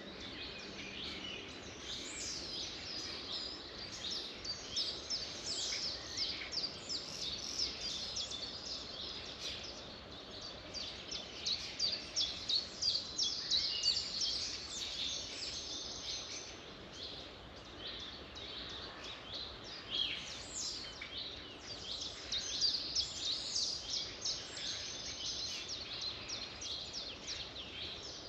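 Several small birds chirping and trilling together over a faint steady background hiss, a dawn-chorus-like mix of quick, high calls that grows busier for a few seconds partway through.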